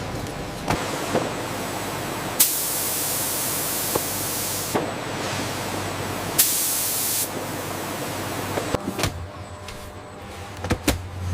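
Two loud bursts of hiss, the first lasting about two seconds and the second under a second, over a steady machine hum with scattered clicks.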